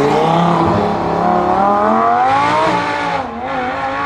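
A high-performance car engine accelerating: its pitch climbs at the start, then holds high with small rises and dips, easing a little after about three seconds.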